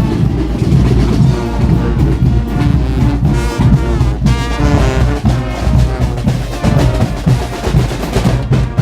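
Carnival brass band with drums playing loud, brassy music over a pounding drum beat.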